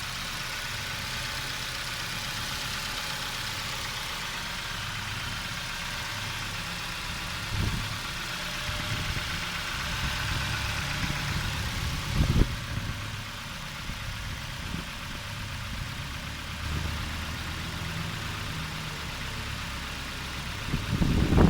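Nissan QG18DE 1.8-litre four-cylinder engine idling steadily during a test run. A couple of short knocks sound about halfway through, and a louder clatter comes near the end.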